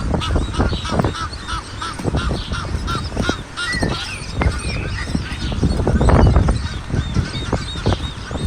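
Birds calling: a fast run of short, repeated chirping notes, several a second, over low rumbling and knocks that are loudest about six seconds in.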